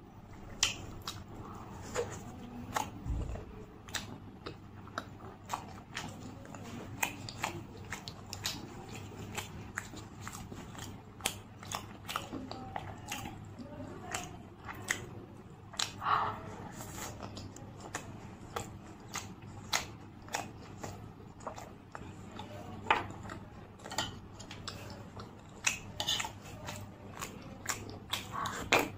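A person chewing and biting food close to the microphone, with frequent sharp mouth clicks at irregular intervals. There is one low thud about three seconds in.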